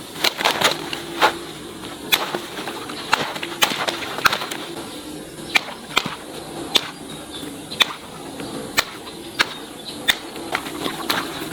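A run of sharp, irregular clicks and snaps, one or two a second, over a faint steady background.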